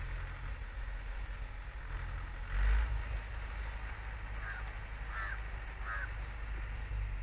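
Tractor engine running with a steady low hum, with a brief louder burst about two and a half seconds in. Three short bird calls follow in the second half.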